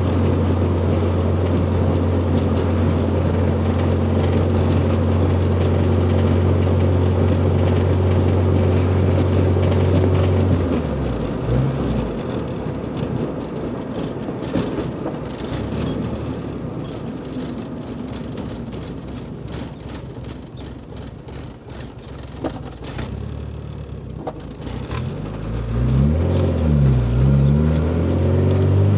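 A 1993 Honda Civic engine running with a knocking sound. It runs steadily at first; about ten seconds in the steady note drops and turns rougher, with scattered clicks. Near the end it is revved up and down a few times.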